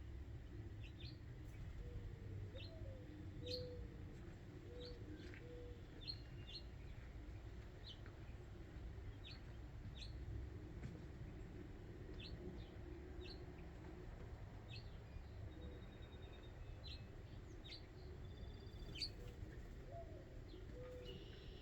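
Wild backyard birds at a feeder: short high chirps repeated about once a second. Twice, near the start and near the end, a low call of a few evenly spaced notes.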